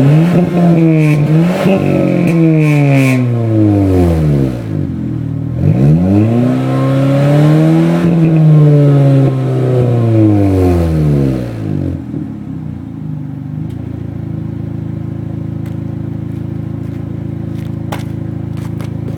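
1989 Ford Probe GT's turbocharged 2.2-litre four-cylinder running through a Flowmaster 40 Series muffler. It is revved in a few quick blips, then in one longer rev that climbs and falls back. About twelve seconds in it settles to a steady idle.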